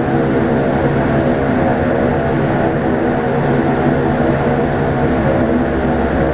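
Twin turboprops of a Saab 340B airliner running steadily in flight, heard inside the cabin: a loud, unchanging drone of many evenly spaced propeller tones over a rushing noise.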